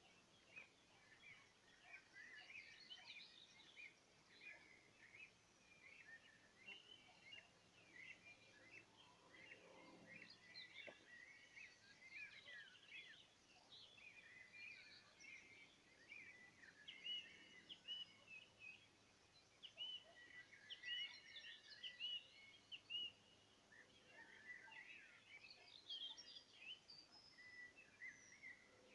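Faint chorus of several songbirds singing and chirping over one another, with a run of short, repeated whistled notes partway through.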